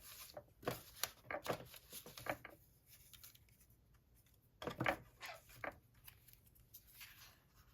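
Paper ephemera being picked up and handled: short, soft rustles and light taps in two clusters.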